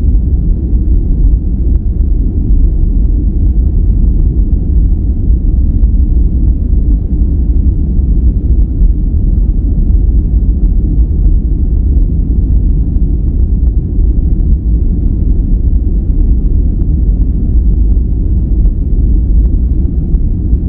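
Steady, unbroken sleep-noise track, deep and rumbling rather than hissy: nearly all of it sits in the bass, with little treble.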